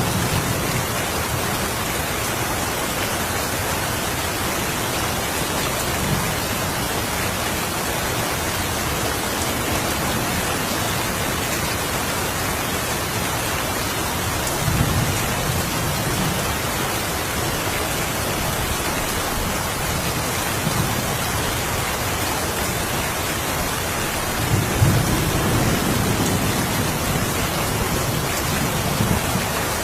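Steady rain falling, with low rolls of thunder rumbling twice, about halfway through and again near the end.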